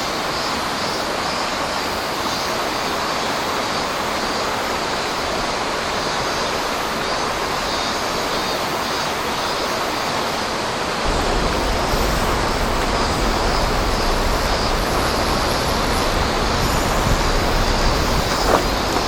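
Steady rush of flowing water. About halfway through a low rumble joins it, and there are a couple of faint knocks near the end.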